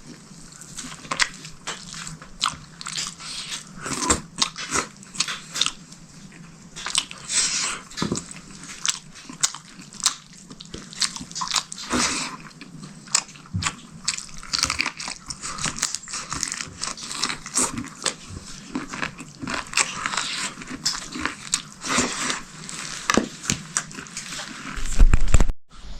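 A person eating, chewing and crunching food in many quick irregular bites. A single loud thump comes near the end.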